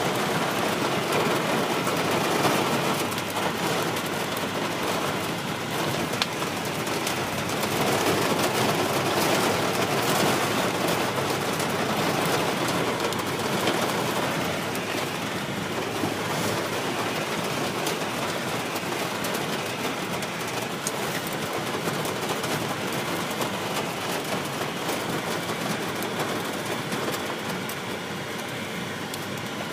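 Rain pelting a moving car, mixed with the car's road and engine noise; a steady wash of noise that is a little heavier in the first half.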